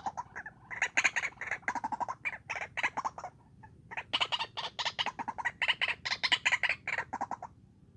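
White-breasted waterhen calling: fast, harsh runs of short repeated notes in several bursts, stopping near the end.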